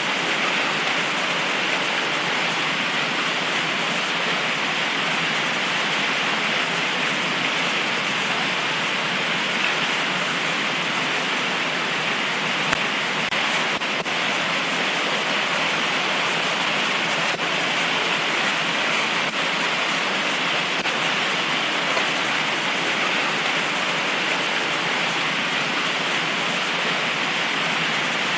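Heavy tropical rain pouring down steadily, an even hiss with no thunder, and a single sharp tick about twelve seconds in.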